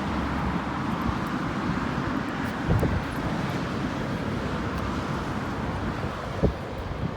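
Wind buffeting the microphone over a steady rushing outdoor noise, with two stronger low thumps, about three seconds in and again near the end.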